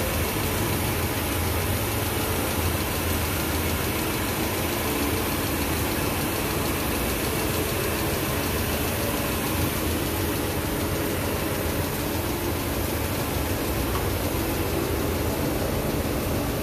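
Kia Rio's petrol engine idling steadily with the hood open, running rough with a vibration that the mechanic blames on scored cylinder liners and worn piston rings or bearings.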